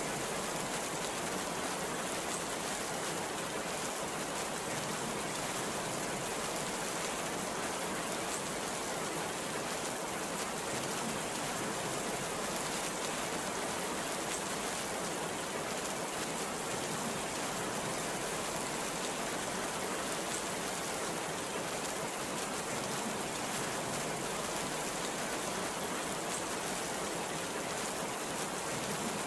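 Heavy rain pouring steadily, an even hiss with no let-up and no thunderclap.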